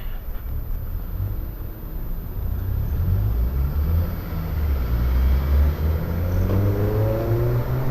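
Chinese motorcycle's engine running under way with a low rumble, its pitch rising toward the end as it accelerates.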